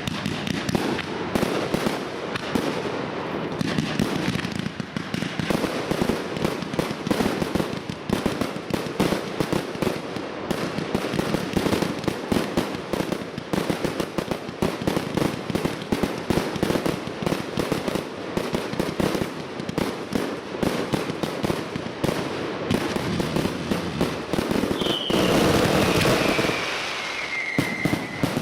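A professional fireworks display finale: an unbroken barrage of firework shell bursts and bangs going off in rapid succession. About 25 seconds in, a louder rushing stretch carries a whistle that falls slowly in pitch for a few seconds.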